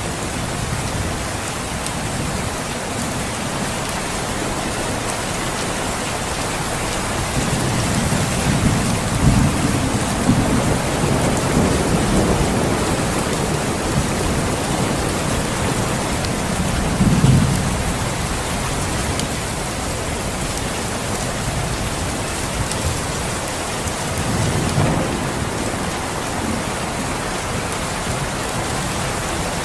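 Steady rain falling, with low rumbles of thunder rolling in a few times, the strongest about a third of the way in and again just past the middle.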